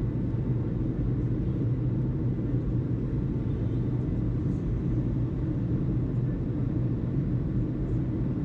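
Steady low rumble with a constant low hum underneath, unchanging throughout.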